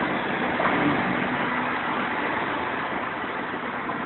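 Car travelling on the highway, heard from inside the cabin: a steady hiss of road and engine noise with a faint low hum.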